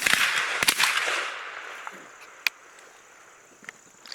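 Shotgun shot fired at a passing dove, about two-thirds of a second in, its echo dying away over about a second and a half. A single sharp click follows about two and a half seconds in.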